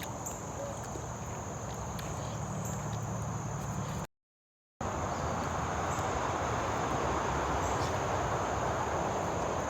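Steady high-pitched insect chorus over a rustling noise. The sound cuts out completely for under a second about four seconds in, and after the gap the rustling is louder.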